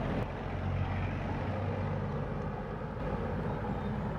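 A motor vehicle's engine running on the road, a steady low hum over road and wind noise.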